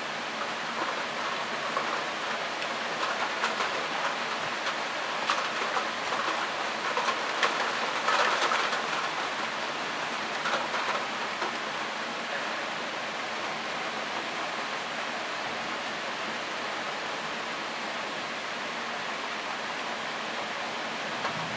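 Heavy rain with gusting wind in a thunderstorm: a steady hiss that swells for several seconds in the first half, with scattered sharp patters of drops, then settles back.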